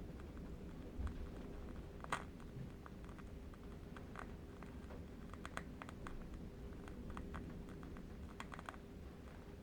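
Faint, irregular crackling of a burning candle wick over a low, steady wind rumble, with one sharper pop about two seconds in.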